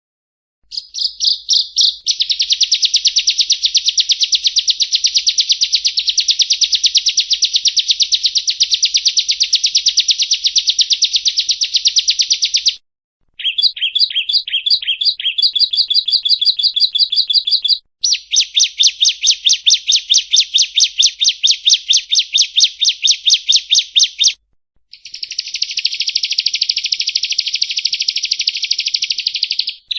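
Yellow-bellied prinia (prenjak rowo) singing: long, loud runs of rapid, buzzy chattering notes in four bouts, broken by short pauses about 13, 18 and 24 seconds in.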